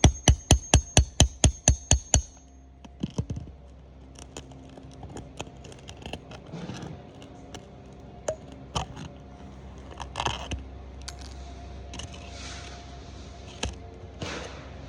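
Rapid, evenly spaced hammer blows with a ringing note, about four a second, stopping about two seconds in. After that, scattered light clicks and scrapes.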